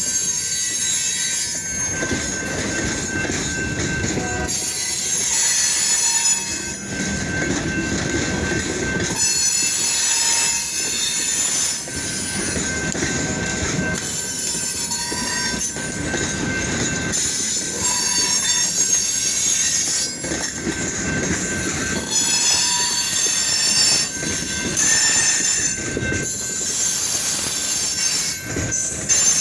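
Freight train cars rolling slowly past with their steel wheels squealing against the rails, several high squeals wavering over the rumble of the cars.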